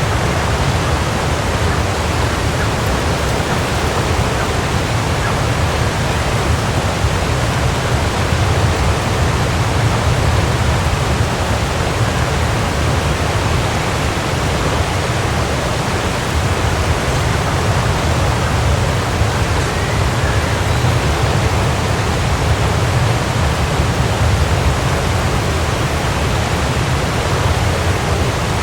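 Waterfall: a steady, even rush of falling water with a deep low rumble underneath.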